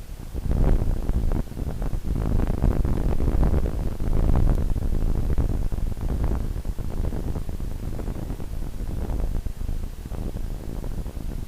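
Cockpit noise of a Yak-52's radial engine and rushing air in flight, heard through the headset intercom as a steady low rumble with a rough, crackling texture.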